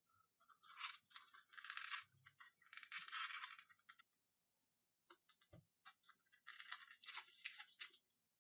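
Hand tool working XPS foam board: three spells of quick scratchy strokes, about a second in, about three seconds in, and again near the end, with small clicks and taps between.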